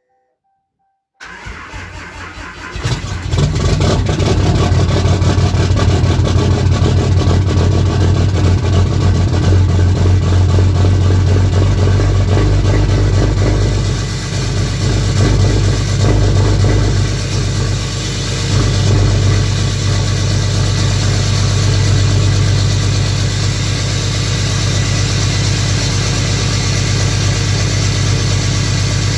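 A 2014 Ram's 6.7 Cummins inline-six turbo-diesel cold-starting at −15 °F through a 4-inch straight-pipe exhaust. The starter cranks for about two seconds, then the engine catches and idles loud and steady, dipping briefly a couple of times.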